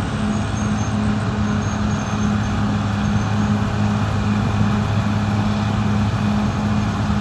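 Caterpillar D6R XL bulldozer's diesel engine running steadily at work, with a low hum that pulses about twice a second.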